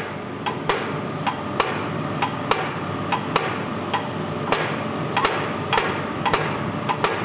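Diesel injector from a D49 locomotive engine, fitted with a new nozzle, firing on a hand-pumped test stand: a string of sharp cracks, about one and a half to two a second, over a steady hiss. The opening pressure is still set above the norm, at about 380–385 instead of 320.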